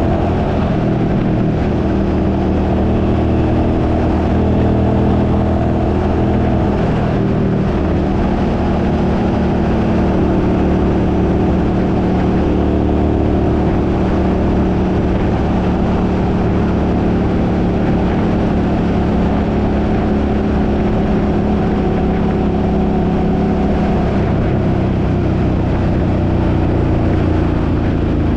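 Suzuki car engine running steadily while driving, with road noise. The engine note shifts about a quarter of the way in and again near the end.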